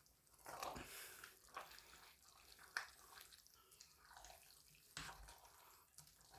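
Faint soft squelching of a utensil working through thick, creamy egg noodles in a pot, with a few light taps, as butter is mixed in.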